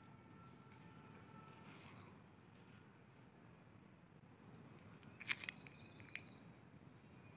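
A small bird singing: two runs of quick, high repeated chirps, one about a second in and a longer one from about four to six seconds in, over faint outdoor background. A few sharp clicks come about five seconds in.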